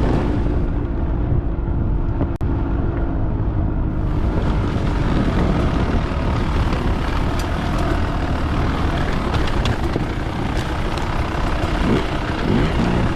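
Dirt bike engine running while riding a trail, with steady rumbling noise over it; the revs climb in a few quick sweeps near the end.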